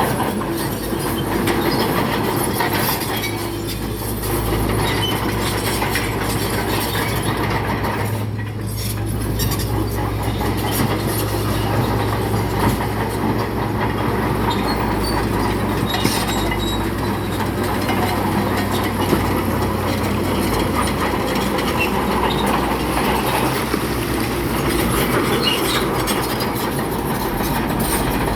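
Crawler bulldozer at work: diesel engine running steadily under load, with the clank and clatter of its steel tracks and rock being pushed.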